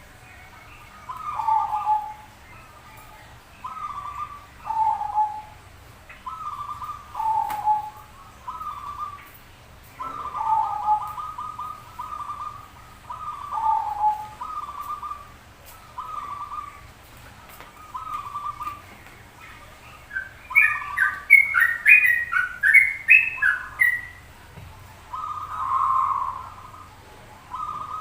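Zebra doves (perkutut) cooing: a short, rolling phrase ending on a lower note, repeated about every two to three seconds. About twenty seconds in, a burst of higher, quicker chirping notes comes in over the cooing for a few seconds.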